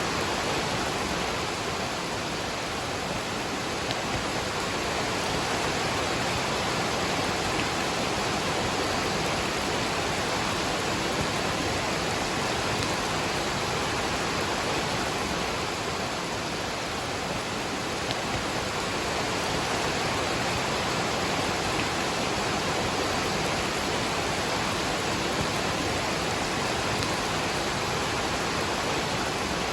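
Waterfall with rain falling: a steady, even rush of water without breaks.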